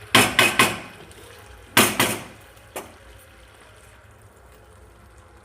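Spatula stirring saucy chilli chicken in a kadai: three quick wet scrapes at the start, two more about two seconds in, and a single click just before three seconds.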